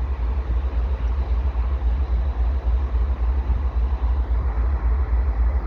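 Wind buffeting the microphone: a loud, fluttering low rumble over a steady noise.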